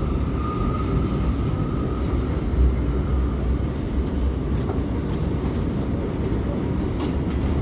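R179 subway car heard from inside, running at speed: a steady low rumble of wheels on rail, with faint high wheel squeal in the first half and a few sharp clicks over rail joints in the second half.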